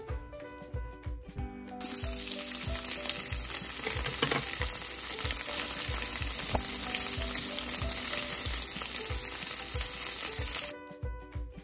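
Tofu cubes sizzling in hot oil in a nonstick frying pan, a steady dense sizzle that starts about two seconds in and cuts off abruptly near the end. Background music with a steady beat plays throughout.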